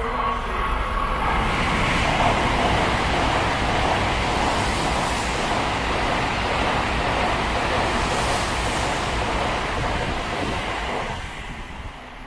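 Tokaido Shinkansen N700A train passing through the station at speed without stopping: a loud, steady rush of air and wheels on rail that drops away sharply about eleven seconds in.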